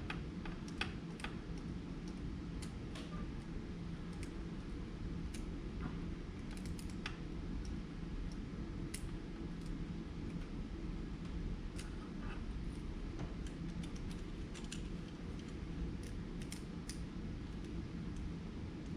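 Faint scattered clicks and small scrapes of tiny screws being driven by hand to fasten a connecting rod keeper onto a model engine kit's crankshaft, over a steady low hum.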